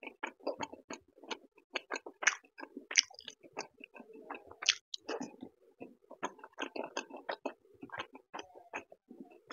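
A person chewing a soft, syrup-soaked rasgulla close to the microphone: wet mouth sounds with a dense, irregular run of short smacks and clicks.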